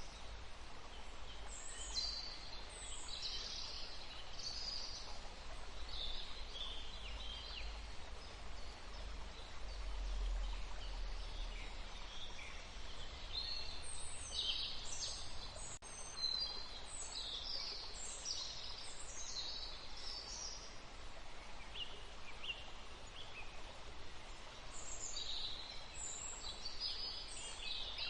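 Forest ambience: several songbirds give short, high chirps and trills in bursts, busiest about halfway through and again near the end, over a steady low background hiss.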